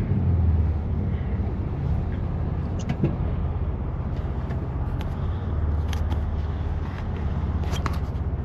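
BMW F80 M3 Competition's twin-turbo inline-six running steadily at low revs through catless downpipes and an always-open valved exhaust, swelling a little midway, with a few light clicks.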